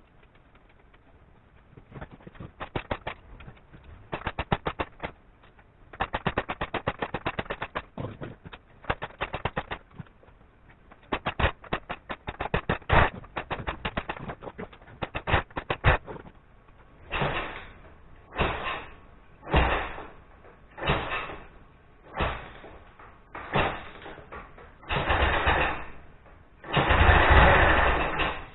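Ural motorcycle's flat-twin engine being started. It fires raggedly in uneven clusters of rapid pulses, then runs in short bursts about once a second, the last one longer and loudest.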